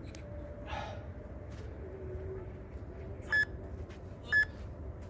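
Interval timer giving two short high beeps a second apart, about three and four seconds in: the countdown marking the end of the 60-second rest before the next set of pull-ups.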